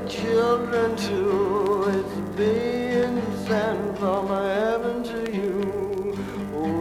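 Male blues singing with a wide, wavering vibrato over acoustic guitar accompaniment, from a 1964 folk-blues studio recording.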